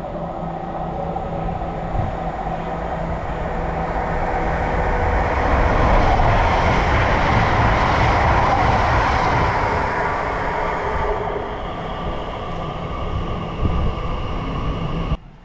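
A train passing through a station, getting louder to a peak about halfway through and then fading, with a steady hum of tones under the noise of the wheels. The sound cuts off abruptly near the end.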